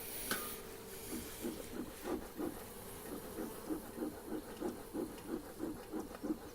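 Beekeeper's smoker bellows being pumped steadily, about three short hissing puffs a second, after a brief hiss at the start.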